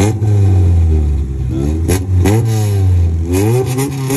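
Car engine idling and being revved in about three short blips, each rising in pitch and falling back to idle.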